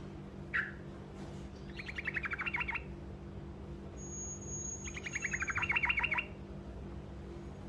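Sooty-headed bulbul (trucukan) singing a short rolling trill twice: a fast run of repeated notes lasting about a second each time, with a single short call before the first. A steady low hum runs underneath.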